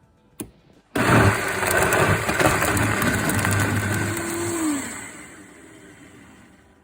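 Electric blender switched on about a second in and running at full speed for around four seconds, then switched off, its motor winding down with a falling pitch. A single click comes just before it starts.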